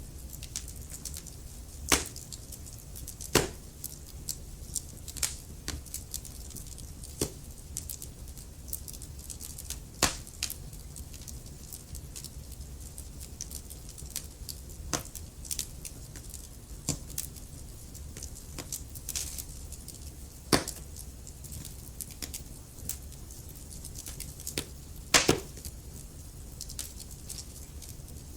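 Wood fire crackling: a steady low rumble and hiss of burning with frequent sharp pops and snaps, a few louder cracks standing out among many small ones.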